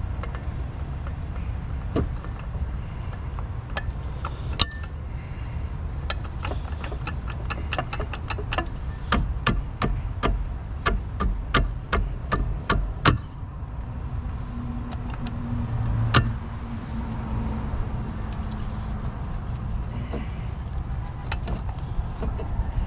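Hand tools clicking and knocking against metal in irregular taps as the outboard's lower unit is worked loose. The taps are densest in the first half, with a single louder knock later, over a steady low rumble.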